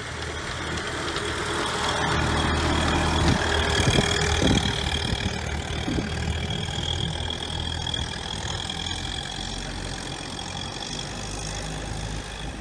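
Ford Model T's four-cylinder engine running as the car drives past. It grows louder to a peak a few seconds in, then fades slowly as the car pulls away.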